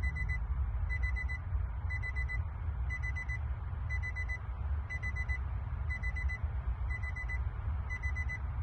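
Electronic warning beeps: a quick run of about four high beeps, repeating about once a second, over a steady low rumble.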